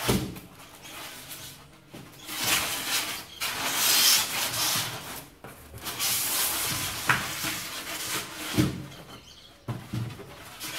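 Styrofoam blocks and a cardboard box being handled and pushed together: stretches of rubbing and scraping, with a few knocks.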